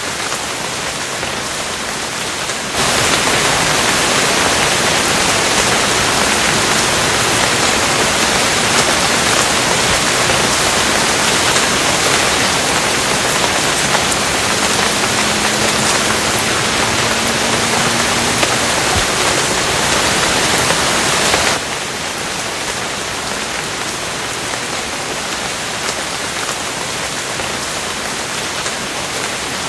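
Steady rain falling. It turns heavier and louder about three seconds in and drops back abruptly about twenty-one seconds in.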